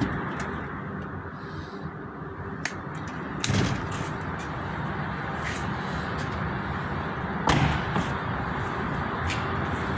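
A car engine running steadily, with two loud thuds about four seconds apart.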